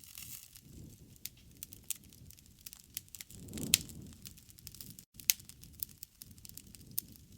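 Wood campfire crackling, with frequent sharp pops over a low rumble of the flames that swells in the middle. The loudest pops come about three and a half and five seconds in.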